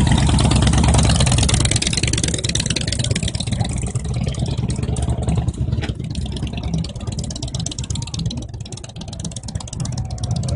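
Motorcycle engine running, loud at first and growing gradually fainter.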